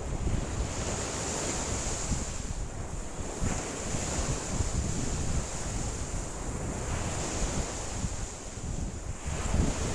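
Lake waves washing against the shore in a strong wind, the wash swelling and fading every few seconds, with wind buffeting the microphone as a low rumble.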